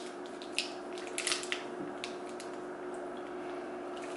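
Chewing a bite of a chocolate peanut butter protein bar: a few short, faint wet mouth clicks and crunches, scattered irregularly over a low steady hum.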